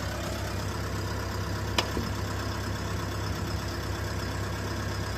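An engine idling steadily, with one sharp metallic click about two seconds in.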